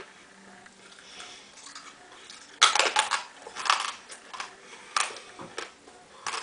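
Hard mints being crunched between the teeth: a run of loud, irregular crunches starting about two and a half seconds in, each a half-second to a second apart.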